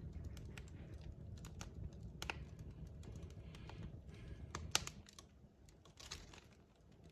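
Wood fire crackling, with irregular sharp pops and snaps of burning logs over a low steady rumble of flame. One pop about two-thirds of the way through is louder than the rest, and the low rumble fades soon after.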